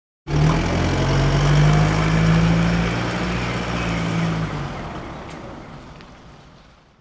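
Motor vehicle engine running with a steady low hum and rough noise. It cuts in abruptly and fades away over the last few seconds.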